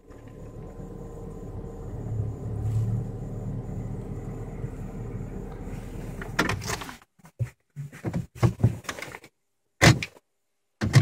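Opel Vectra C running with a steady low hum, which stops about seven seconds in. Short scattered knocks and rustles with silent gaps follow.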